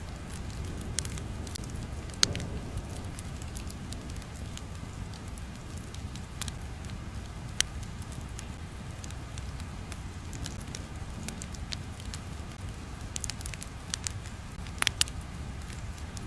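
Crackling fire ambience: a steady low rumble with scattered sharp pops and crackles, the loudest about two seconds in, midway and near the end.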